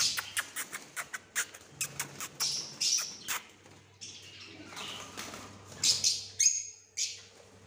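Lovebirds in cages chirping: a dense run of short, sharp, high calls, thinning out for a moment past the middle and picking up again.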